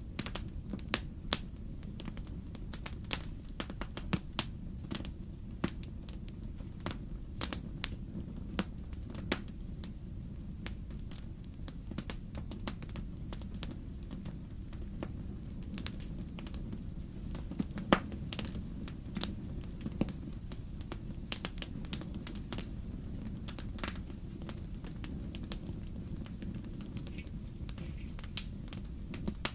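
Wood fire burning in a fireplace: a steady low rumble of the flames with frequent irregular sharp crackles and pops, one louder pop about 18 seconds in.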